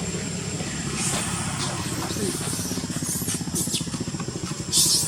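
A small engine running steadily with a rapid low pulse, with a brief hissing burst near the end.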